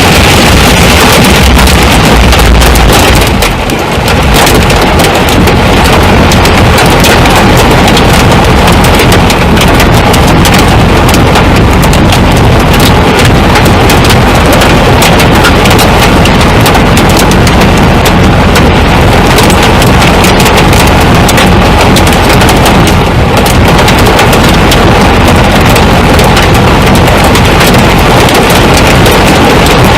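Large hail, stones about 1.5 inches across, pounding a vehicle in a dense, unbroken barrage of hard impacts mixed with heavy rain, very loud throughout with a brief lull a few seconds in.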